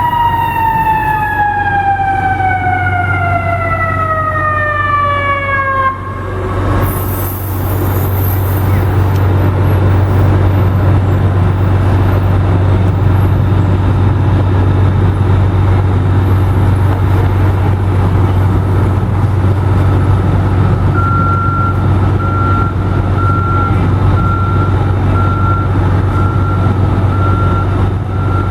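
Fire truck siren winding down in a long falling wail that cuts off about six seconds in. A heavy truck's steady low engine rumble follows, and near the end a single-pitch beep starts repeating about once a second.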